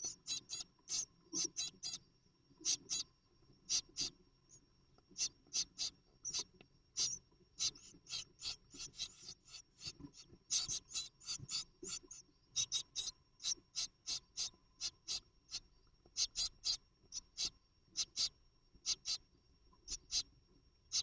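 Great tits in a nest box giving rapid runs of short, high, thin squeaking calls, several a second with brief pauses between runs. A faint steady high tone runs underneath.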